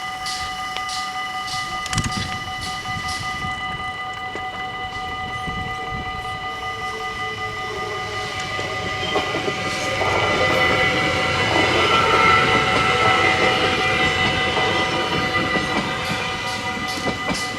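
Level-crossing warning bells ringing steadily while a train passes over the crossing. Its wheels clatter over the rails, loudest from about ten seconds in.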